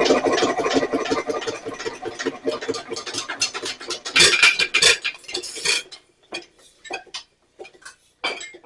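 Nelson Little Jumbo hit-and-miss engine being turned over without firing, with rapid metallic clicking and clinking from its moving parts. A louder burst of clatter comes about four seconds in. After about six seconds the clicking thins to scattered clinks.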